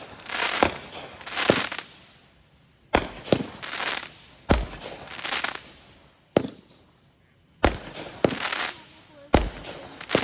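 Consumer fireworks going off: a string of sharp bangs, each trailed by a hissing tail of up to about a second, with short lulls about two seconds in and again around seven seconds in.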